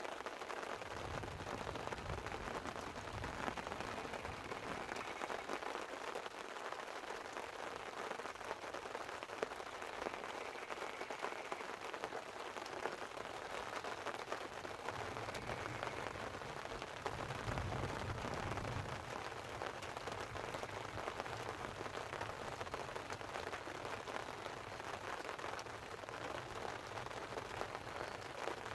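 Light rain pattering steadily on a tent, with low thunder rumbling twice, briefly about a second in and more strongly just past the middle.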